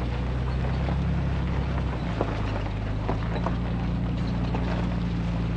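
Vehicle engine and road noise while driving: a steady low drone.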